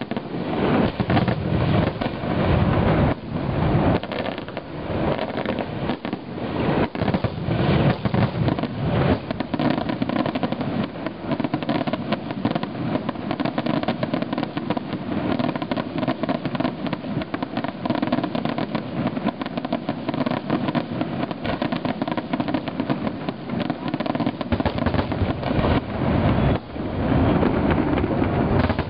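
Fireworks display: many aerial shells bursting in quick succession, a dense, continuous run of overlapping bangs with no pause.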